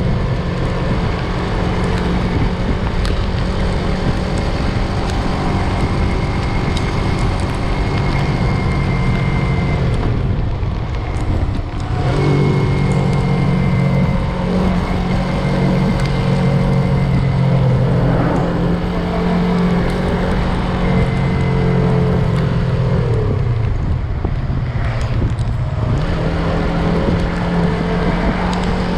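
Yamaha MT-03 motorcycle engine running on the move, with wind noise over the microphone. The engine note drops away twice, about ten seconds in and again around twenty-four seconds, then picks up again.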